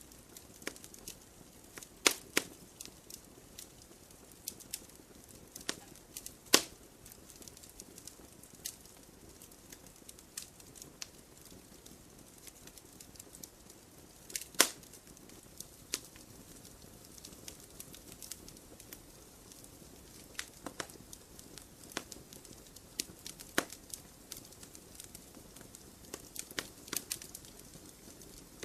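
Wood campfire crackling: irregular sharp pops and snaps over a soft steady hiss of burning, with a few louder pops about two, six and a half and fourteen and a half seconds in.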